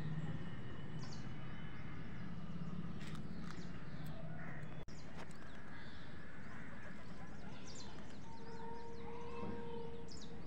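Outdoor rural background: birds chirping in short high calls over a steady low hum. A held, steady tone comes in near the end, and the sound drops out for an instant about halfway through.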